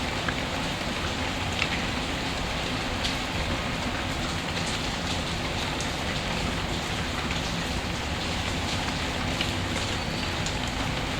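Steady, even rain falling, with a few scattered sharp clicks, from a recorded rain-and-fireplace ambience track.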